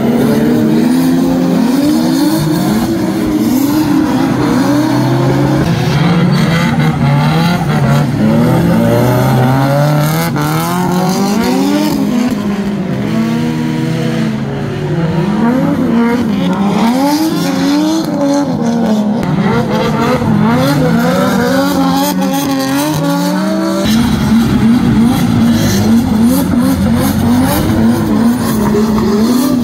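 Drift cars' engines revving hard through a wet corner, their pitch climbing and dropping again and again every second or two as the drivers work the throttle, with more than one engine heard at once.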